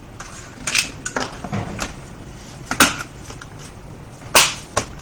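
Handling noises on a repair bench: a handful of separate clicks and knocks. The loudest comes near the middle, and a short scrape about four and a half seconds in.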